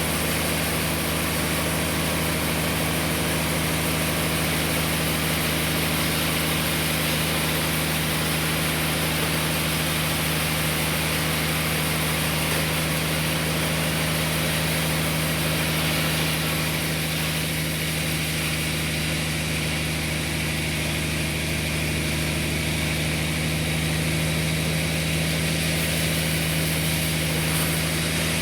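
Sawmill machinery running steadily: a constant engine hum with a hissing edge, unchanging throughout.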